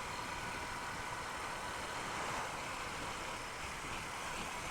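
Honda Unicorn motorcycle riding at a steady speed: even engine and road noise mixed with wind rush on the microphone, with no changes in pitch or level.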